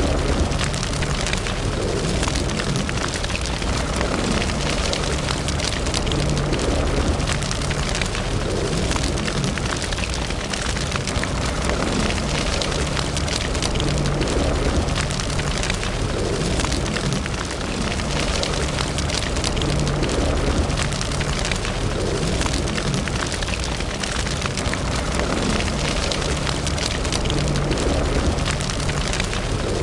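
Wood fire burning in a fireplace, a steady rush of flame with dense crackling and small pops throughout.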